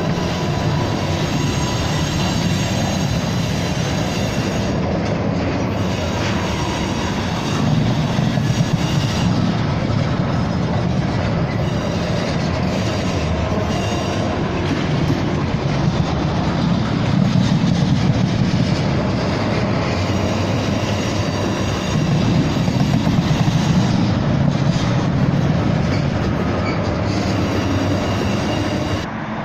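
A freight train's loaded oil tank cars rolling past close by, their steel wheels rumbling and clattering on the rails. The noise is steady, swelling louder a few times as the cars go by.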